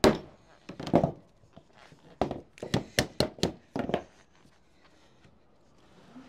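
Hammer striking a setting stick to dress code 4/5 sheet lead, about ten sharp knocks that stop about four seconds in.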